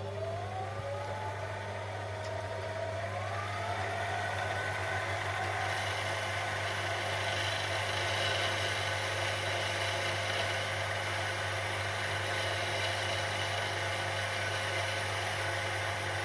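Electric motor of a workshop machine tool starting up: its whine rises in pitch over the first few seconds as it comes up to speed, then it runs steadily with a low hum.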